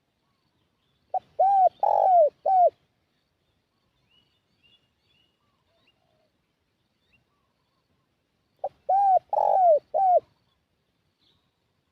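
Spotted dove (tekukur) cooing its lure call twice, about seven seconds apart: each phrase is a short clipped note followed by three arched, rounded coos.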